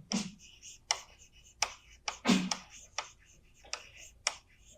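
Chalk tapping and scraping on a blackboard: a string of short, sharp, irregular clicks, about two a second, some with a brief scratchy tail.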